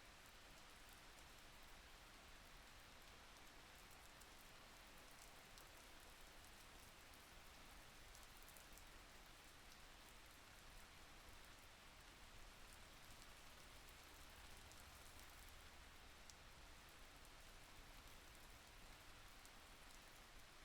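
Faint, steady rain falling, an even hiss with scattered soft drop ticks.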